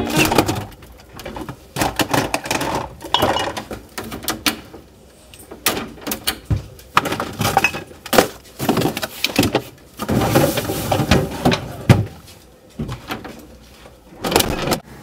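Household rummaging: cupboard and refrigerator doors opened and shut and things knocked and shifted about, in a run of short irregular bangs and clatters.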